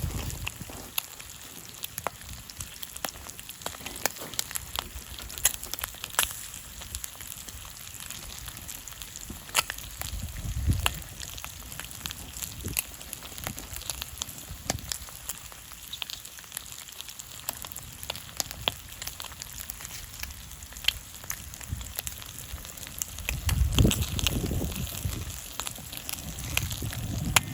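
Campfire crackling with many irregular sharp pops over a steady hiss of bacon frying in oil. There are a couple of low rumbles, near the middle and toward the end.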